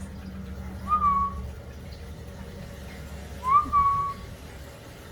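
Two short clear whistles, one about a second in and a longer one about three and a half seconds in, each sliding up and then holding a steady note.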